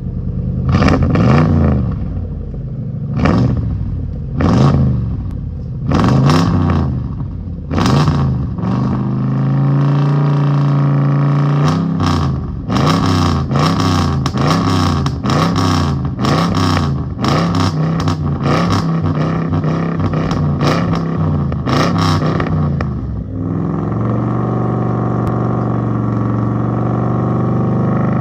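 2005 Mercury Grand Marquis's 4.6-litre V8 through a straight-piped exhaust, revved again and again while still cold from the start. It gives a series of separate blips, a short steady hold, and then a quick run of repeated revs, before it settles back to a steady idle for the last few seconds.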